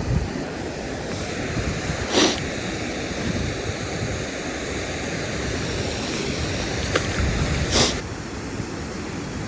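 Steady rushing noise of wind on the microphone and flowing river water, broken by two short sharp clicks, one about two seconds in and one near the end.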